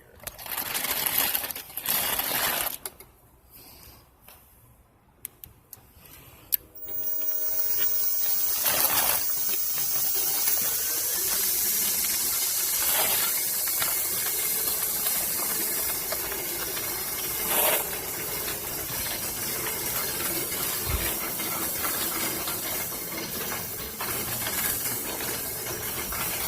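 Homemade hand tractor's motor drive running with a steady hissing whir, starting about seven seconds in after a few brief rustles and knocks.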